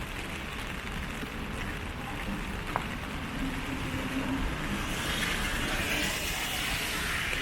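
Street traffic in the rain: a steady rumble of passing vehicles, with the hiss of tyres on a wet road swelling from about five seconds in.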